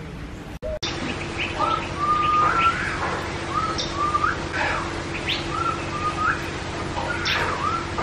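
Bird calls: a series of short whistled phrases, each ending in a quick upward flick, repeated about once a second and mixed with sharp high chips, over a steady low hum. The calls begin just after a brief dropout about a second in.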